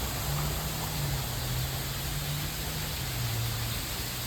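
Steady rushing background noise with a low, wavering hum underneath.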